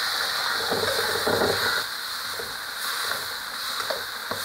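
Chillies, shallots and garlic sizzling in a little oil in a stainless steel wok, stirred with a metal spatula that scrapes and knocks against the pan now and then.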